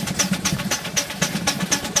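Miniature Ruston Proctor steam traction engine on the move, its exhaust chuffing in an even beat of about four a second over a steady low rumble.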